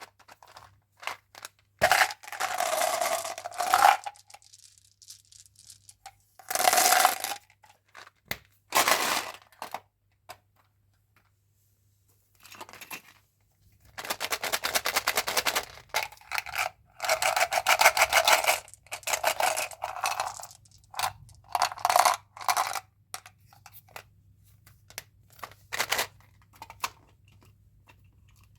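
Mentos candy packaging being handled: wrapper crinkling and tearing in short bursts, with a long stretch of rapid rattling clicks about halfway through.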